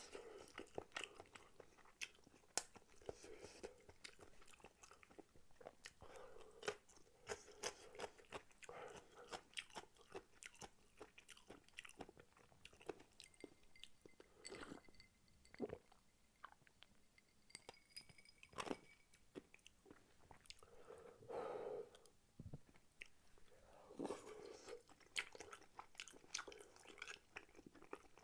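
Quiet, close-up eating sounds of spicy tteokbokki: chewy rice cakes being chewed, with many short, wet mouth clicks and smacks.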